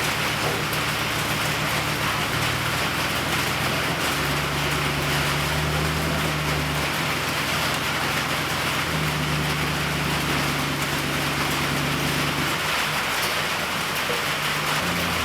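MIG welder arc crackling and hissing steadily, like frying, with a low hum that shifts in pitch every couple of seconds.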